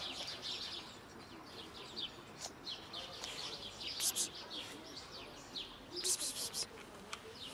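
Small birds chirping in the background, a busy run of short high chirps. Brief louder crackly bursts come about four seconds in and again around six seconds in.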